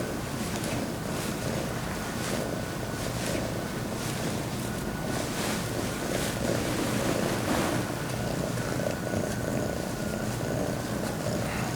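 Domestic cat purring steadily right against the microphone, a continuous low rumble.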